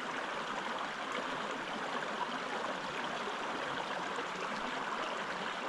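Small, shallow mountain creek running steadily over rocks, an even rushing and burbling of water.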